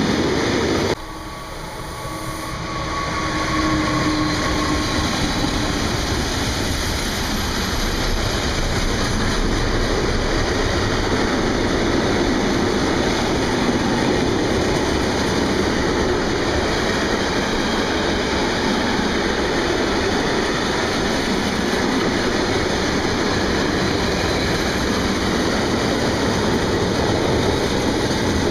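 Freight train rolling past, a steady rumble and rattle of wagons on the rails. The sound drops suddenly about a second in, then builds back up over the next few seconds and stays steady.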